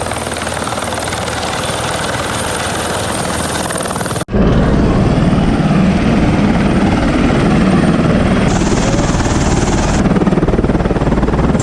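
Helicopter running steadily with its rotor going. About four seconds in the sound cuts abruptly to a louder, deeper rotor noise with a fast low flutter.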